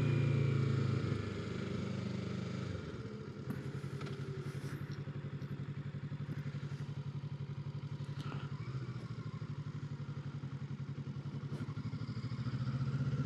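Kawasaki Ninja 650's parallel-twin engine running under way: strong for the first few seconds, then dropping off about three seconds in to a lower, steady pulsing note, and rising again near the end.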